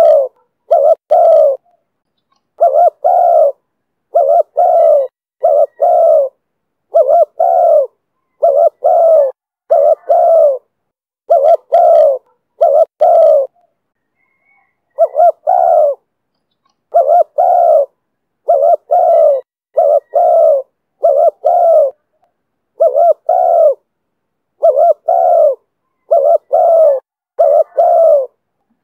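Spotted dove cooing over and over in the call style Vietnamese keepers call 'thổ thúc bổi': short, deep coos in runs of two or three, with a pause of a second or so about halfway through.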